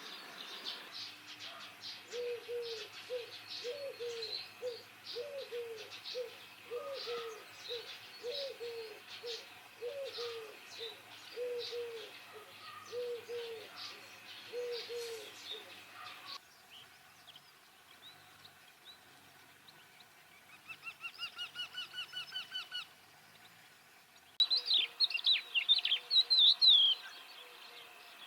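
A Eurasian collared dove cooing, its low coos repeated evenly for some fifteen seconds while smaller birds chirp high behind it. After a break, a Eurasian wryneck gives its rapid series of about a dozen ringing, nasal notes, followed by loud, sharp bird chirps near the end.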